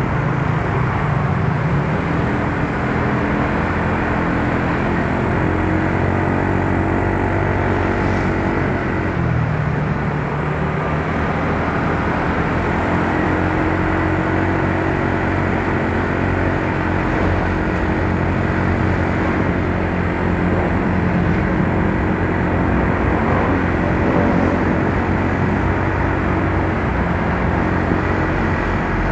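Yamaha Mio Soul scooter's engine running while riding, with wind and road noise over the microphone; the engine note rises and falls a few times.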